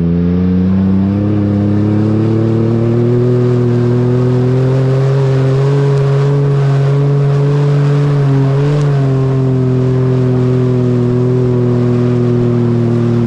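2012 Nissan Xterra's 4.0-litre VQ40DE V6 engine and exhaust running under throttle, its pitch climbing slowly for the first several seconds, then holding. About nine seconds in the pitch briefly wavers, after which it eases gently down.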